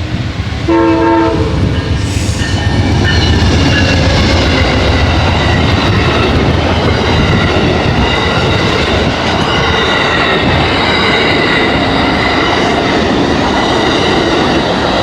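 Amtrak passenger train passing close by: a short horn blast about a second in, then the locomotive's low rumble and the cars rolling over the rails, with a high steady squeal from the wheels.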